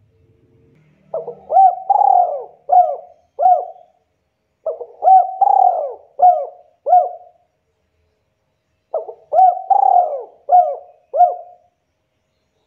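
Spotted dove (tekukur) cooing: three phrases of five coos each, separated by pauses of a second or two. Each note rises and falls in pitch.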